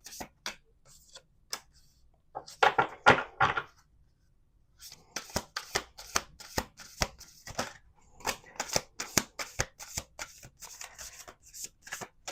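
A deck of oracle cards being shuffled by hand: a run of quick papery flicks and taps, with a louder cluster about three seconds in and a steady patter of card snaps from about five seconds on.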